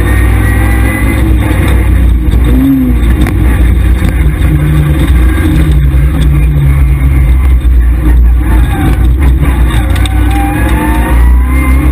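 Škoda Felicia rally car's engine driven hard on a stage, heard loud from inside the cabin. It revs with the pitch climbing under acceleration near the start and again near the end, over heavy road and tyre rumble.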